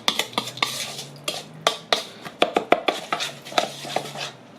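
Spoon stirring a wet spice paste of oil, onion and garlic in a bowl, clinking against the side of the bowl several times a second; it stops shortly before the end.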